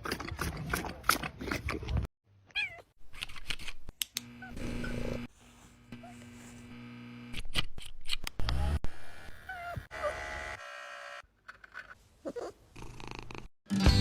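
Cats meowing in several short clips joined by abrupt cuts, each with a few brief calls that rise and fall in pitch.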